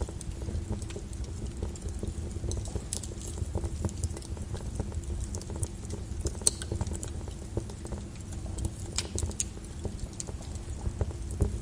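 Lava flow crackling: irregular sharp clicks and snaps of cooling, cracking lava crust over a steady low rumble.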